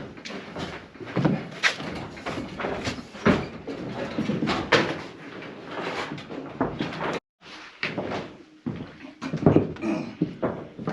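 Irregular knocks and thumps of carpentry work on a wooden roof frame, with a brief cut-out about seven seconds in.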